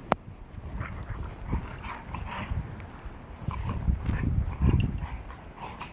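Dog moving and rooting about in snow: irregular crunching and rustling, with a single sharp click just after the start.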